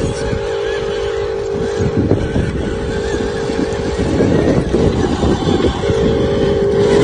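Electric motor and gearing of a radio-controlled construction model running, a steady whine over a rattling clatter. The whine wavers and breaks up for a couple of seconds past the middle, then settles back to a steady pitch.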